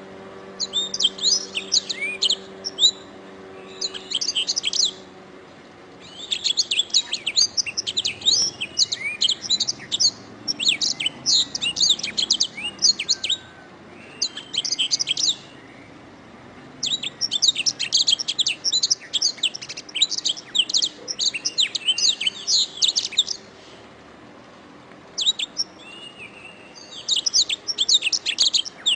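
Domestic canary singing: long phrases of rapid chirps and rolling trills, several seconds each, broken by short pauses.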